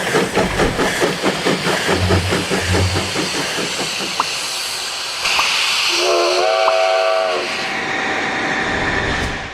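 A train running with a rapid, even clatter of wheels over the rail joints, then a steady hiss, then one whistle blast of about a second and a half, rising in pitch as it starts, about six seconds in.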